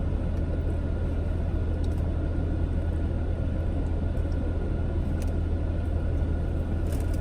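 Steady low rumble with a faint high steady tone over it, and a few faint clicks.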